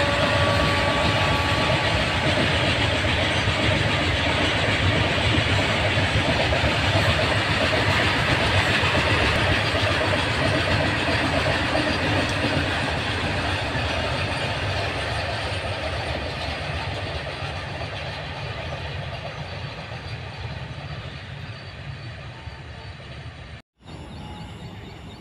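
Freight train of BOXN HL open-top wagons rolling past, with a steady rumble and clatter of wheels on rail. The noise fades away over the last ten seconds as the rear of the train passes, and breaks off just before the end.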